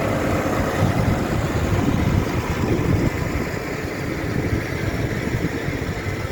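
Tractor engine running steadily at low revs, a dense low rumble.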